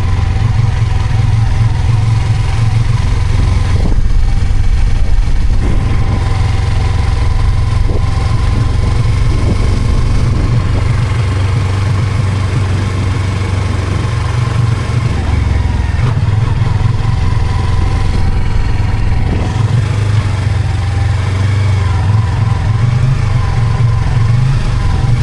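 Yamaha R25 parallel-twin engine running on the move after being push-started. Heavy, steady wind rumble on the microphone covers it.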